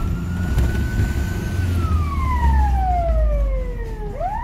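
Fire engine siren wailing through one full cycle: a quick rise to a high held note, then a long slow fall, with the next rise starting near the end. A low rumble runs underneath.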